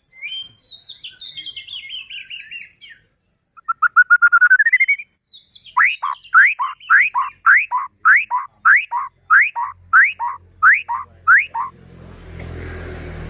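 White-rumped shama (murai batu) singing: a warbled falling phrase, then a fast rising trill, then a run of about a dozen sharply upslurred notes, about two a second. A rushing noise comes in near the end.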